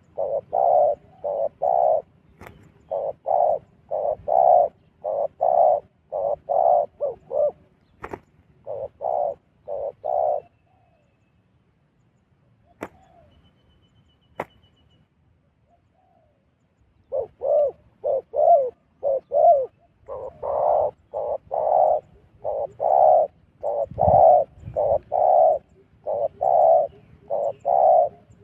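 A dove cooing in long series of short, repeated notes, about two a second, falling silent for several seconds midway and then resuming. A few sharp clicks sound during the pause.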